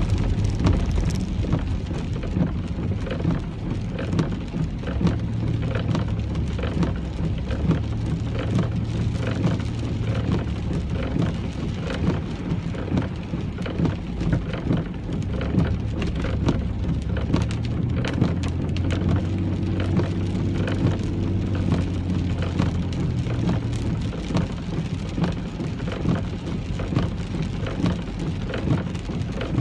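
Rain pattering steadily on a car, with many small drop ticks, over the low hum of the car's engine and road noise, which shifts in pitch a few times as it drives.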